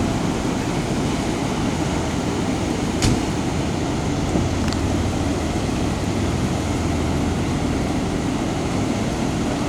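Steady low rumble of a running vehicle engine with no siren. A sharp click comes about three seconds in, and a fainter one follows under two seconds later.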